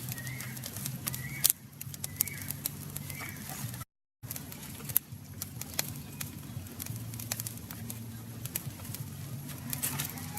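Irregular crackling and sharp clicks over a low steady drone, cut by a brief dropout about four seconds in.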